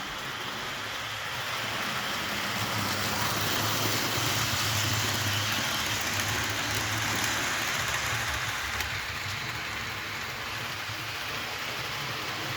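HO scale Athearn Blue Box U-boat diesel model, a locomotive built without flywheels, running along the track with a train: a steady motor hum under the rolling noise of wheels on rails. It gets louder over the first few seconds and eases off after the middle.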